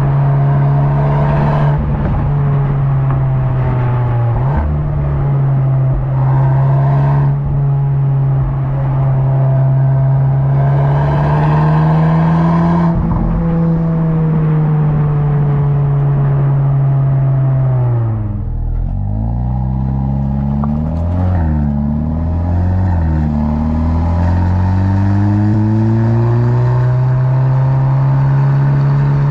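Audi S3's turbocharged 2.0-litre four-cylinder engine pulling at steady high revs, with short bursts of hiss over the drone. About eighteen seconds in the revs drop sharply as the throttle is lifted, rise and fall a few times, then climb and hold again.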